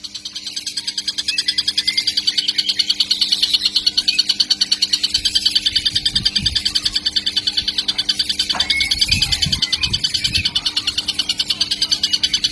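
Young tengkek (kingfisher) calling in a fast, steady stream of high-pitched pulses, a chick already calling vigorously.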